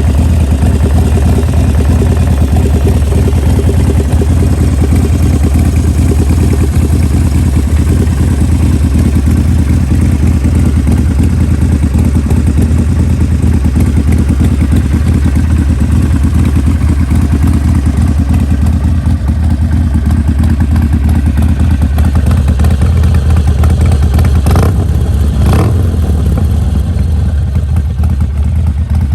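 2019 Harley-Davidson Sportster Iron 1200's air-cooled 1200 cc V-twin running steadily at idle through a D&D Bobcat aftermarket exhaust. There are two short sharp noises about 25 seconds in.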